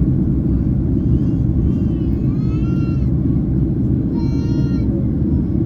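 Steady low rumble inside the cabin of a Boeing 767-300ER in flight: engine and airflow noise.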